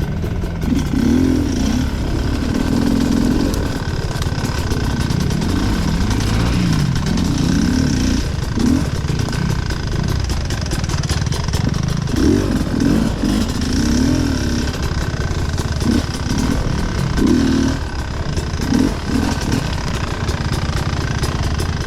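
Off-road motorcycle engine running and revving up and down, its pitch rising and falling again and again with short blips of the throttle.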